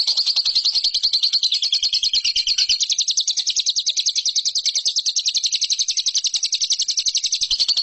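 Lovebird singing a long, unbroken run of rapid high chirps, about ten a second, at an even pace.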